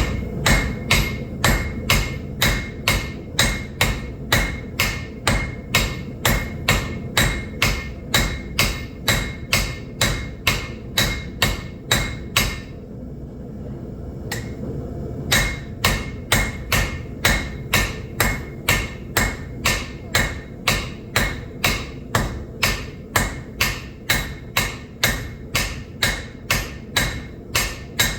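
Hand hammer striking a hot railroad spike on an anvil, a steady run of about two blows a second with a bright ring on each strike. The blows pause for about three seconds near the middle, over a steady low rumble.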